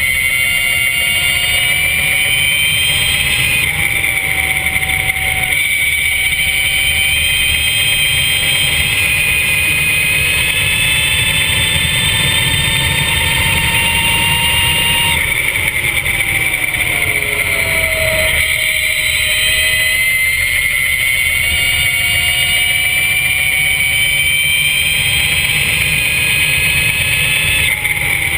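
Mission R electric superbike's drive motor whining at speed. Its pitch climbs slowly under acceleration and drops quickly under braking several times, over a steady low rushing noise.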